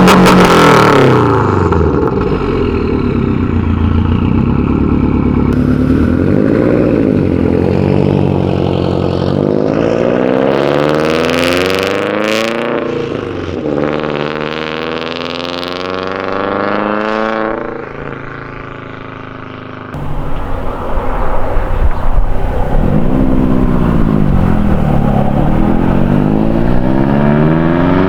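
Turbocharged flat-four of a 2013 Subaru WRX with Tomei unequal-length headers, catless downpipe and catback, revving up and down repeatedly through the rev range. There are short loud hissing surges near the start and about halfway. The sound drops off briefly near two-thirds of the way, then cuts back in loud.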